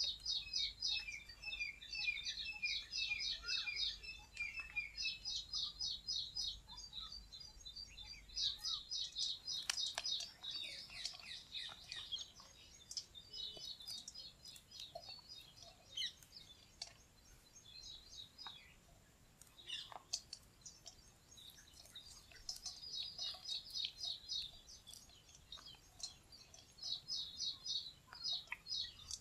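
Small birds chirping in quick high trills that come and go, with a run of falling, lower notes in the first few seconds. A few faint clicks in between.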